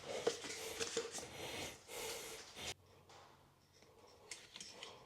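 Faint rustling and light clicks of hands working while sealant is laid under a faucet base. The noise stops abruptly about two and a half seconds in, then a few small clicks follow near the end.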